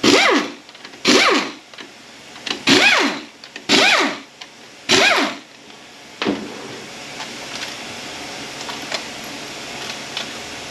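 Handheld power tool run in five short bursts about a second apart, each spinning up and winding down, as bolts are taken out during a transmission teardown. From about six seconds in, a steady hiss takes over.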